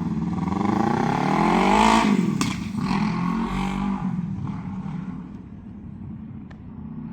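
A road vehicle's engine accelerating, its pitch rising for about two seconds, then falling away and fading as it moves off.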